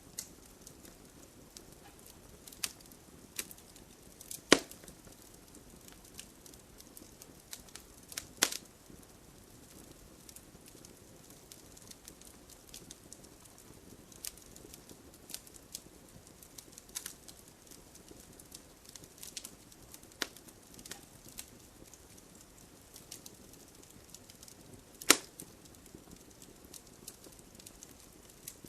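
Wood fire burning in a fireplace: scattered crackles over a soft low hiss, with three loud pops, about four and a half seconds, eight and a half seconds and twenty-five seconds in.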